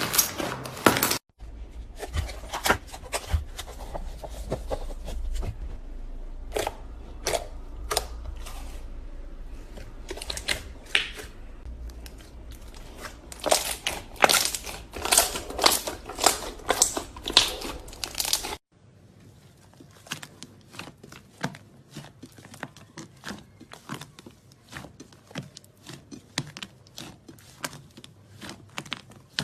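Slime being squeezed and worked by hand, giving dense irregular crackling and popping clicks. There are abrupt cuts about a second in and two-thirds of the way through, and the last part is quieter, with sharp separate clicks.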